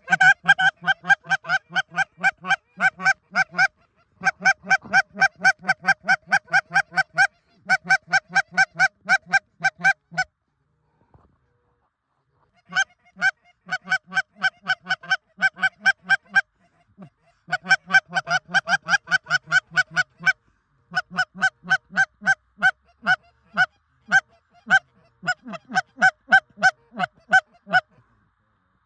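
Goose honking and clucking: rapid, evenly spaced honks, about five or six a second, in long runs broken by two short pauses.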